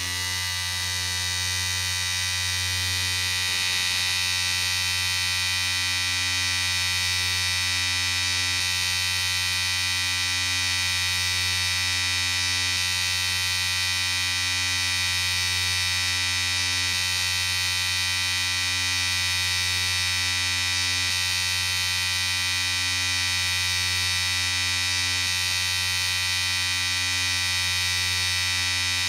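Electric shaver running with a steady buzzing hum.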